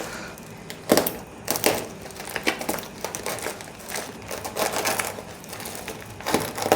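Parcel packaging being handled and opened by hand: irregular crinkling and rustling with sharp crackles, the loudest about a second in and again near the end.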